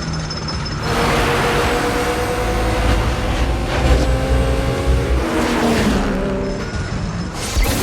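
Film soundtrack of racing car engines running hard, with a loud rush of noise breaking in about a second in. The engine pitch sways near the end, and another sudden burst comes just before it ends.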